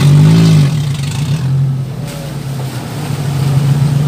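Suzuki Jimny 4x4 engine revving briefly at the start, its pitch rising and falling, then running steadily at low revs while the vehicle crawls through mud.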